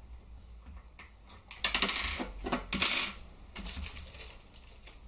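Small clicks and rattles of airsoft rifle parts and screws being handled while the trigger unit is unscrewed, in two short flurries a little over a second apart, with lighter ticks after.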